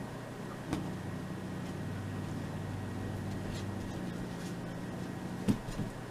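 Cat growling low and steadily for several seconds, an angry warning at the dog, with a short click about a second in and a sharper knock near the end.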